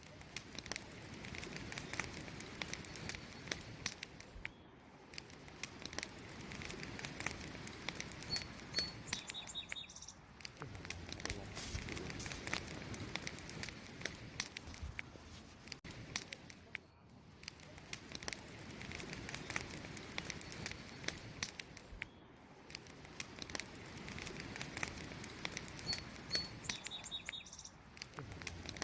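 Wood campfire crackling and popping steadily, with a few short high bird chirps about a third of the way in and again near the end.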